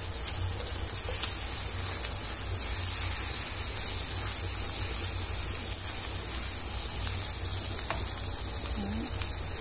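Scrambled egg and zucchini frying in a pan, a steady sizzle as the eggs are cooked dry. A couple of faint ticks come from the spatula against the pan.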